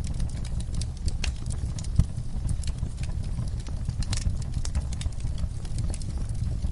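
Campfire burning: wood crackling and popping irregularly over a steady low rumble of flame, with one louder pop about two seconds in.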